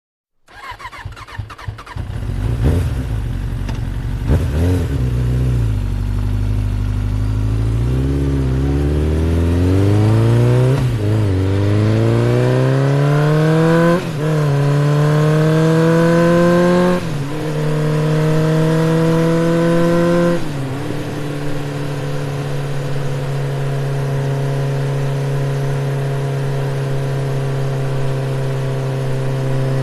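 Truck engine pulling away and accelerating up through the gears. Its pitch climbs and drops back at each of several gear changes, then holds steady at cruising speed for the last third.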